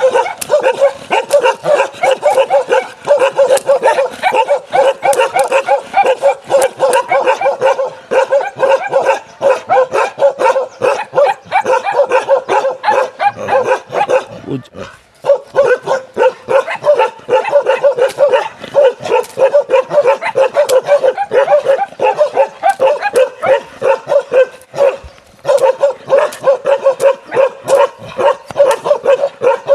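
Bakarwal dogs barking rapidly and almost without let-up, several barks a second, with short breaks about halfway through and again a few seconds before the end.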